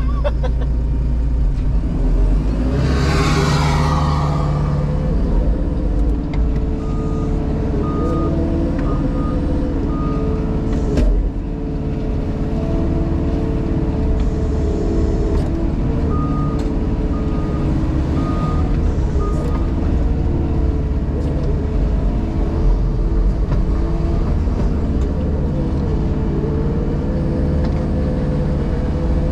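JCB Pothole Pro's diesel engine running steadily, heard from inside the cab. A loud hiss rises and fades about three seconds in, and the machine's alarm sounds twice in runs of four short, high beeps.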